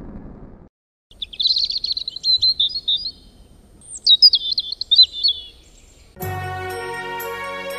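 Songbird singing in two short, warbling, chirping phrases. A deep boom fades out in the first second, and held music chords begin about six seconds in.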